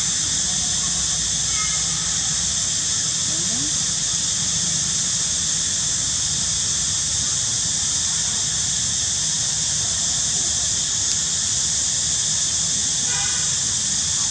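A steady, high-pitched hiss runs throughout, with faint short squeaks and a brief squeal about thirteen seconds in, fitting a monkey.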